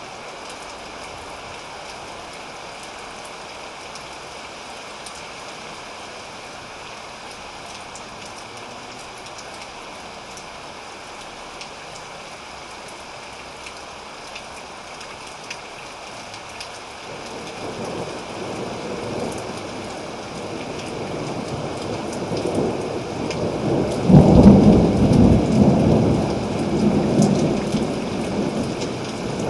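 Steady rain hissing down. About halfway through a roll of thunder starts to build, rising to a sudden loudest peak near the end, then rumbling on.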